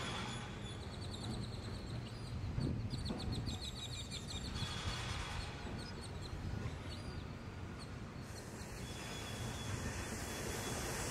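Outdoor ambience: a steady low rumble with a small bird chirping in quick runs of short notes during the first few seconds, and a thin high steady tone.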